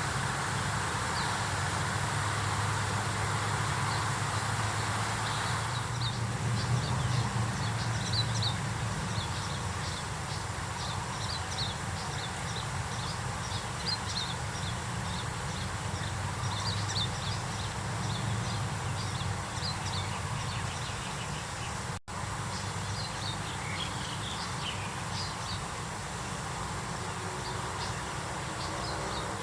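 Many small birds chirping in short, high, rapid notes over a steady low hum.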